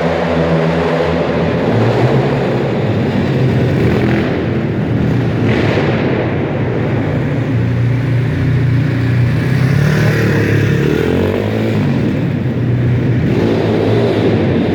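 Pit bike engine running at varying revs, climbing and dropping as the bike is ridden, with a rise in pitch about two-thirds of the way through.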